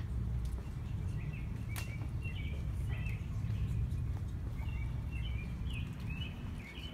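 Small birds chirping in short, scattered calls over a steady low outdoor rumble, with one sharp click about two seconds in.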